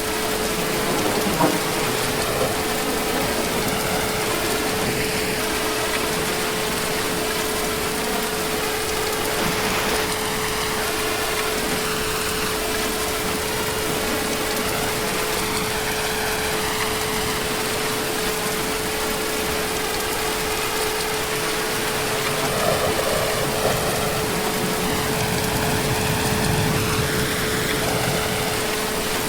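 Heavy rain falling steadily, an even hiss with a few sharper drops or splashes now and then. A thin steady tone sits underneath throughout.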